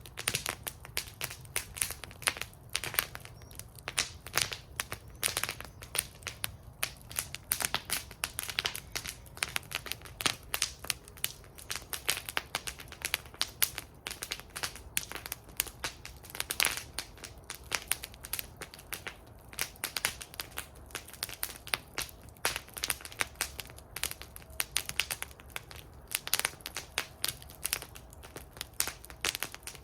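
Wood fire burning in a metal fire bowl, crackling and popping steadily with many irregular sharp snaps over a low rumble of the flames.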